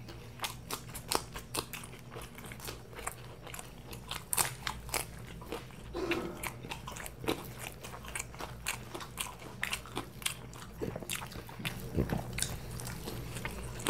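Close-miked chewing and biting of fried mughlai paratha and raw green chilies: an irregular run of small, sharp crunching clicks.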